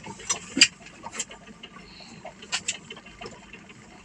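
A handful of sharp clicks and knocks, about five in all, the loudest about half a second in.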